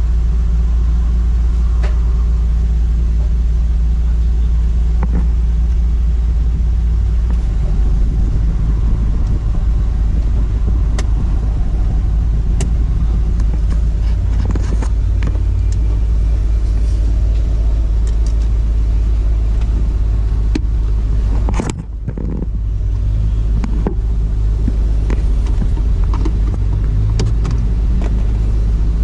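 Perodua Kancil's small engine idling steadily with the air-conditioning running, a low continuous hum. A sharp click comes about three-quarters of the way through.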